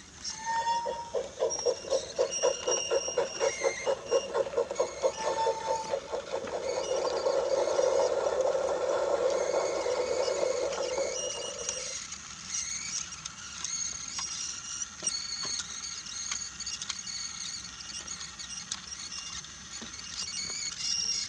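Battery-powered Brio toy train running on wooden track: a steady motor whir with rapid clicking that stops about twelve seconds in, followed by scattered light clicks and knocks.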